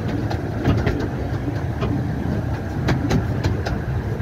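Miniature-gauge train running along the track: a steady low rumble with frequent, irregular clicks and clacks from the wheels and running gear.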